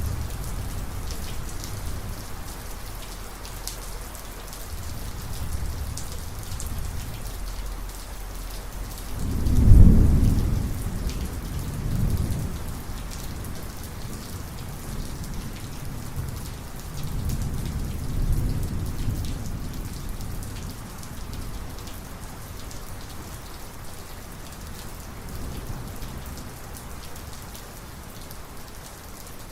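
Thunderstorm: steady heavy rain falling, with low rolling thunder. A loud thunderclap about a third of the way in rumbles on for a few seconds, and a second, longer rumble follows about halfway through.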